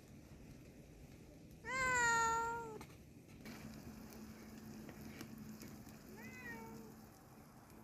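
A cat meowing: one loud, drawn-out meow about two seconds in, and a shorter, fainter meow a few seconds later.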